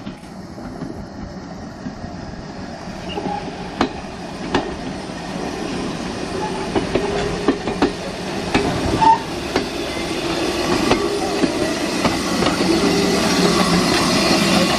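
A train running on rails, its wheels clicking over the rail joints, growing steadily louder as it approaches.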